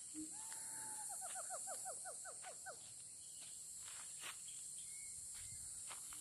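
A forest bird calls once: one held note followed by a quick run of about ten short notes. Under it, a steady high insect drone runs throughout, with a few faint clicks.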